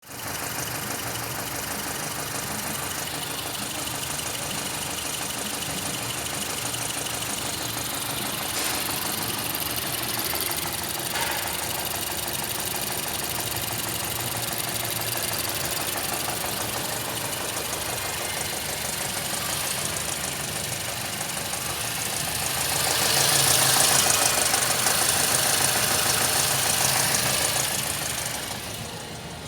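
Mazda CX-7's 2.3-litre turbocharged four-cylinder engine running steadily at idle. Near the end it is revved, rising to a louder run for several seconds before falling back toward idle.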